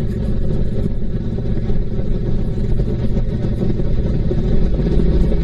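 Honda VTX1800C's V-twin engine running steadily as the motorcycle cruises, a low, even rumble from the exhaust.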